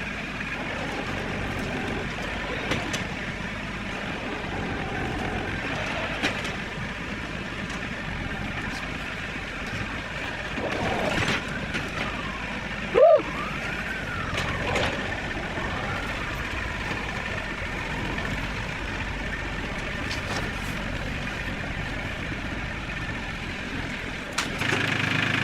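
Challenger MT275 tractor engine running steadily under load while pulling on the fort, with a few short rising-and-falling squeals around the middle.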